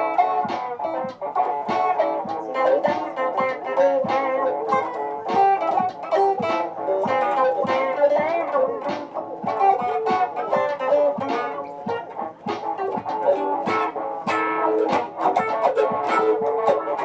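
Layered live-looped guitar parts playing together: busy picked notes over repeating guitar figures, with a few notes gliding in pitch.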